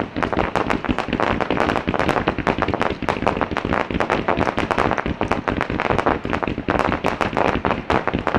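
Aerial fireworks shells bursting in rapid, dense succession: many bangs and crackles a second, with no break.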